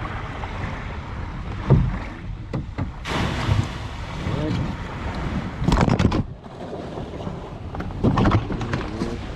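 Wind on the microphone and water moving around a kayak near the shore, swelling louder several times, with faint voices now and then.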